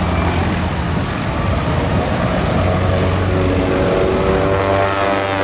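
Search-and-rescue helicopter running close by with a steady, loud rotor and engine noise and a low hum. About three seconds in, a set of whining tones from the engine and rotor rises into it.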